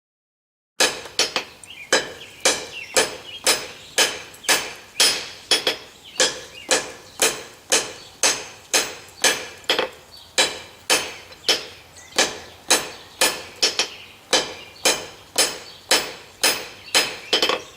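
Blacksmith's hammer repeatedly striking a hot steel bar on the anvil in a steady rhythm, about two to three blows a second, each with a short metallic ring, drawing the end of the bar out to a tapered point. The hammering starts about a second in.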